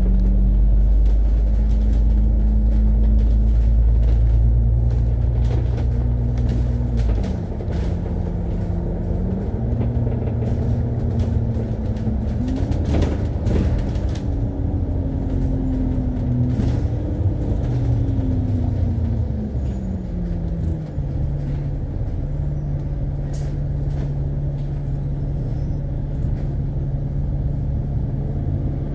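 Alexander Dennis Enviro500 double-decker bus's diesel engine and transmission, heard from on board while driving. A heavy low drone in the first seven seconds drops away, and the engine pitch then rises and falls through gear changes and throttle changes before settling to a steady note for the last several seconds.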